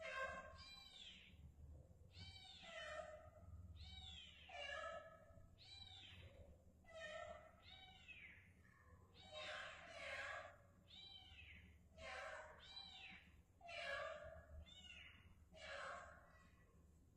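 Kitten meowing over and over, about one high, arching call a second, the cries of a kitten trapped in a hole under concrete stairs.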